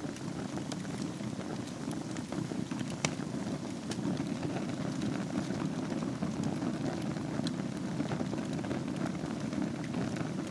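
Wood fire burning in a fireplace: a steady low rumble of flames with scattered crackles and pops, one sharper pop about three seconds in.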